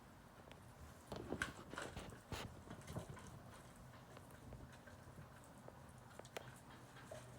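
Faint irregular tapping and clicking from pet birds moving about, with a quick cluster of louder taps between about one and three seconds in.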